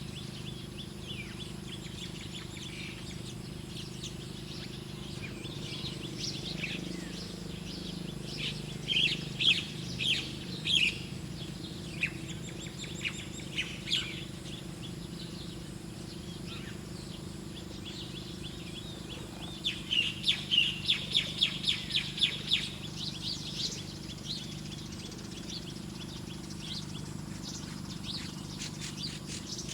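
Bird chirping: sharp, high chirps in clusters, with a burst about a third of the way in and a fast run of chirps, about five a second, past the middle, over a steady low hum.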